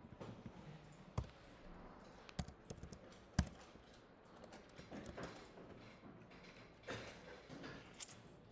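Scattered keystrokes and clicks on a computer keyboard and mouse: a few separate sharp taps, the loudest about three and a half seconds in, over faint room noise.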